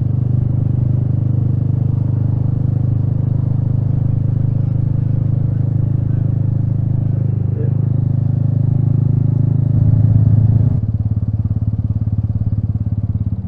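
Royal Enfield Meteor 350's single-cylinder engine running steadily under way, heard close up. It pulls harder from about eight seconds in, loudest around ten seconds, then eases off a little before eleven seconds as the throttle is rolled back.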